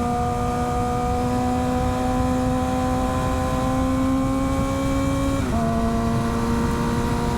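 Motorcycle engine running at steady road revs with wind rushing past, the pitch creeping slightly higher and then dipping a little about five seconds in before holding steady.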